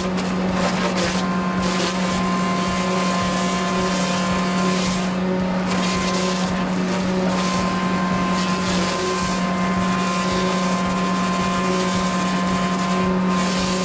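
Machinery engine or motor running steadily at one constant pitch, a strong unchanging drone with a light hiss above it.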